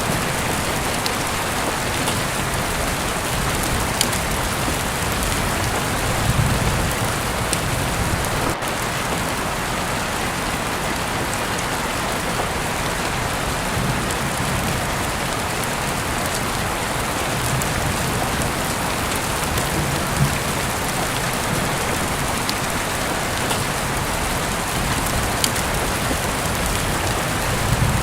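Heavy rain falling steadily, heard through an open window, with the odd louder drop ticking on a surface.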